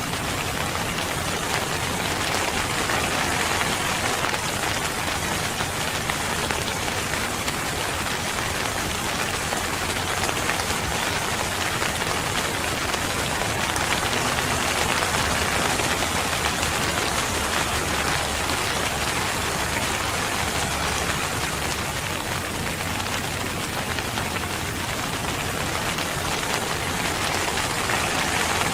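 Steady rain falling and pattering on a surface, an even hiss that swells and eases slightly.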